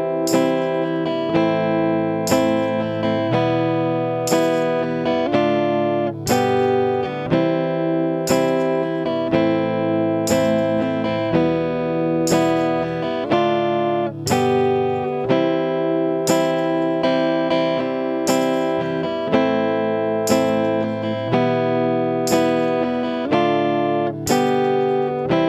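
Guitar strumming the chords of a Thai pop song with no vocals, a strong stroke about once a second and the chord changing every few seconds.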